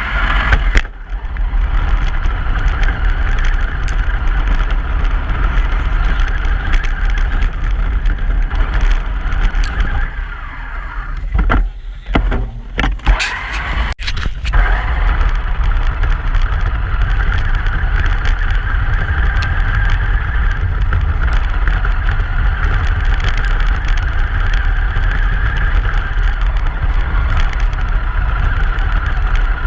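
Truck driving: a steady low rumble of engine and road noise. About ten seconds in it eases off for a few seconds, with a few clicks and knocks, then runs steady again.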